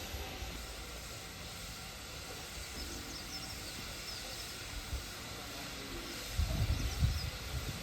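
Steady outdoor hiss with a few faint bird chirps, and low rumbling buffets on the microphone about six seconds in.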